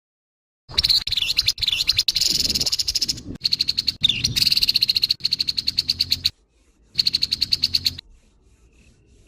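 Grey-headed babbler giving harsh, fast rattling chatter calls. The calls start abruptly about a second in, break off briefly past the middle, resume for about a second, and then stop.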